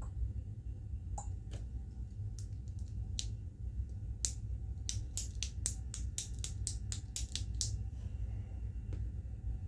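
Sharp clicks of a pen, a few scattered at first, then a quick run of about five a second for roughly three seconds, and a single click near the end, over a steady low background hum.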